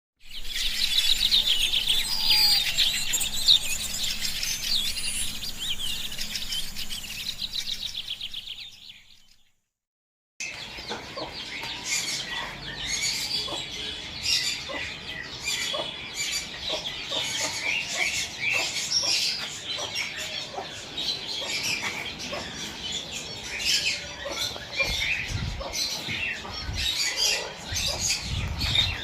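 A dense chorus of many penned birds chirping and calling at once. It fades out about nine seconds in, breaks off for about a second, then starts again as a busy mix of chirps and short calls.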